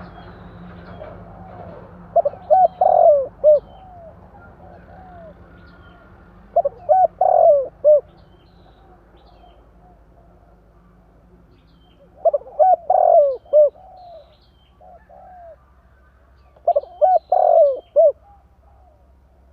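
Spotted dove (tekukur) cooing: four phrases of several quick coo notes, roughly every four to five seconds, with softer coos between the last two phrases. Faint chirps of small birds sound in the background.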